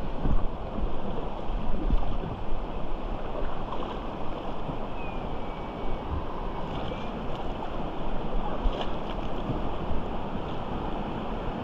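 Steady rush of river water around an inflatable raft, with wind buffeting the microphone and a few low knocks in the first two seconds.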